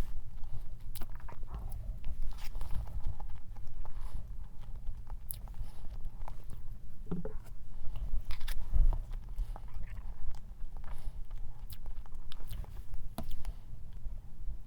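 Close-miked chewing and wet mouth sounds of a person eating strawberry cream cake, with many small irregular clicks.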